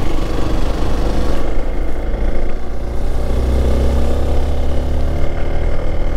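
Hero XPulse 200 4V's single-cylinder engine running under way uphill, its pitch rising gradually from about two seconds in as the bike pulls.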